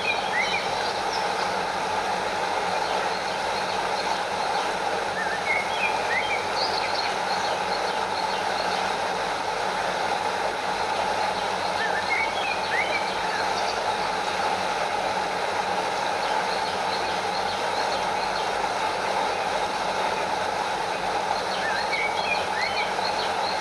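Steady rushing of a stream's water flowing over a small waterfall. Short high chirps come about every six seconds, with faint ticking between them.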